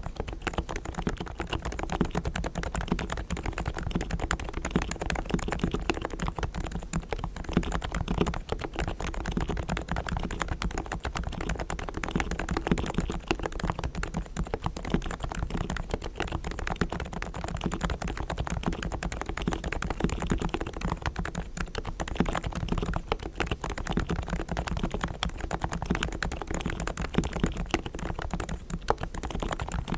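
Fast, continuous typing on a Realforce R3 tenkeyless Topre keyboard with 45 g silent switches, its sliders and springs lubed with Krytox: a dense, even stream of keystrokes with no pauses.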